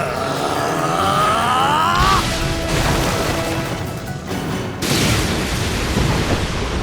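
Anime battle soundtrack: music with booming impact effects. It opens with a long pitched sound that rises and bends for about two seconds, then sudden heavy blasts follow.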